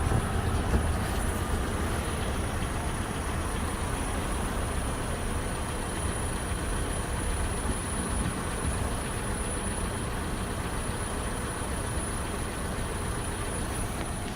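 Steady low rumble of a car on the move, engine and road noise, with a faint high whine over it.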